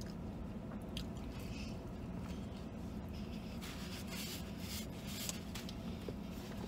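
Close-up chewing and wet mouth sounds of a man eating a fried chicken sandwich, with a napkin rubbed across his mouth around four seconds in. A steady low hum sits underneath.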